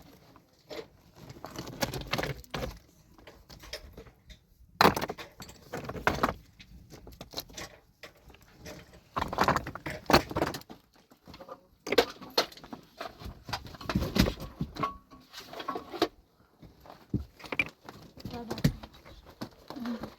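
Irregular clattering and scraping of stones and rubble being handled and moved, a string of short knocks and rattles with brief pauses between them.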